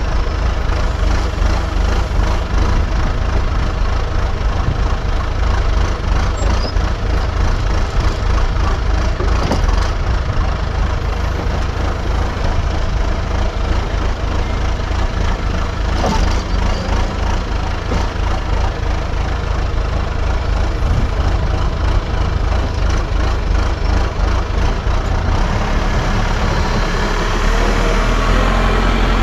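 Diesel engine of a piece of earthmoving machinery running steadily, with a couple of brief knocks about a third and halfway through. The engine note changes near the end.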